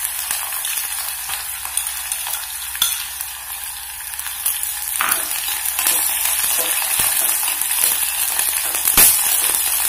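Sliced shallots and green chillies sizzling and frying in hot coconut oil in a white ceramic pot. A spoon stirs them, clinking against the pot a few times. The frying grows a little louder about halfway through.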